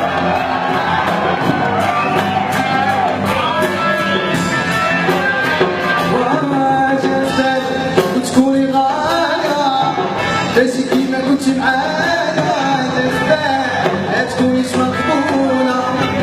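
Live band music with a singer, drum strikes running through it.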